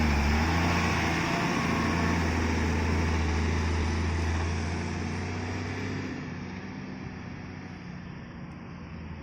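Heavy diesel engine of a road-construction machine or truck running with a deep steady drone, growing fainter from about five seconds in as it moves away or throttles down.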